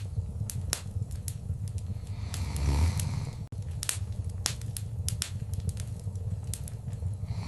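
Wood fire crackling in a fireplace: many sharp pops and snaps over a steady low rumble of the flames, with a louder swelling whoosh about two and a half to three seconds in.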